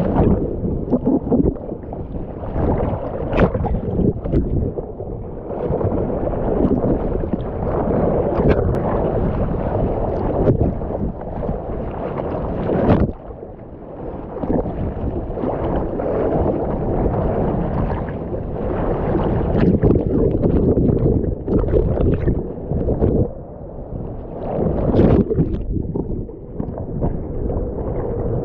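Surf water splashing and churning around a swimmer, muffled, with frequent sharper splashes and a brief quieter dip about 13 seconds in.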